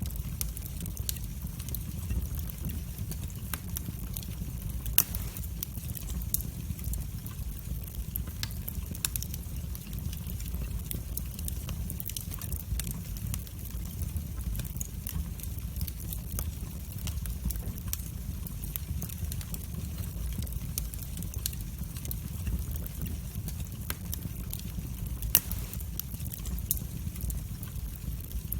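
Wood fire burning in a fireplace: a steady low rumble of the flames with frequent small crackles and occasional sharper pops, the loudest about five seconds in and near the end.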